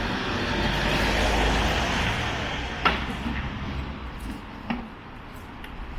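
A road vehicle passing close by, its broad rumbling noise fading away after the first couple of seconds, with two sharp knocks about three and five seconds in.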